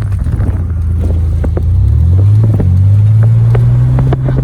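Vehicle engine running under light throttle, heard from inside the cab: a steady low hum whose pitch climbs about a second and a half in and then holds, with scattered light clicks.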